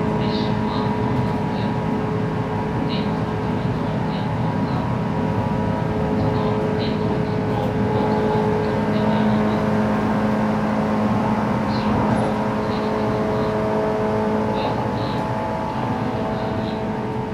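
Inside the cabin of a JR West 117 series electric train running at about 110 km/h: a steady motor and gear whine over the rumble of wheels on rail.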